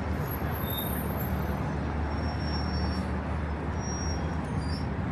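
City bus passing close by, its engine a steady low rumble with a few brief faint high squeaks.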